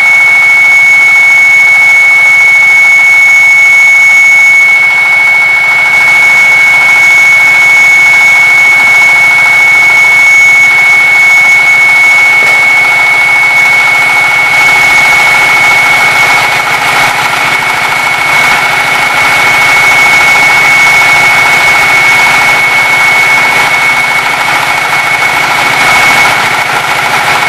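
A 14 hp concrete cutting machine running steadily, with a loud high-pitched whine over the engine. From about halfway through, a rougher, grittier noise builds up over the whine.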